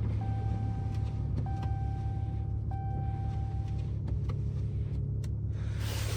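Steady low drone of a pickup truck, with a thin steady tone above it that stops and restarts about every second and a quarter, fading out about two-thirds of the way in.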